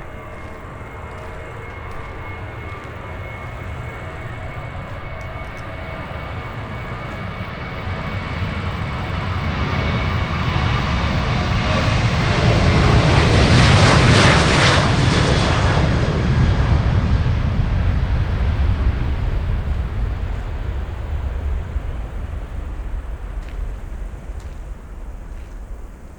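Jet airliner flying past: its engine noise builds to a peak about halfway through, then fades. A high steady whine from the engines is heard as it approaches.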